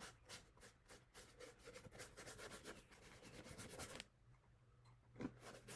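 Paintbrush brushing paint onto cardboard: faint, quick repeated strokes that stop about four seconds in, with one more stroke near the end.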